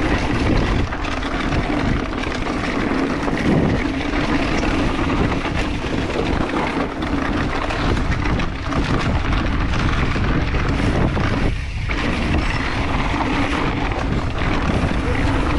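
Steady rush of wind over the microphone mixed with the rumble and rattle of a mountain bike's tyres rolling over a dirt and rock trail at speed, with a brief lull about twelve seconds in.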